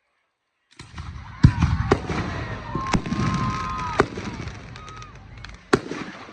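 Aerial fireworks going off, starting abruptly about a second in: five sharp bangs over continuous crackling, with whistling tones gliding through the noise.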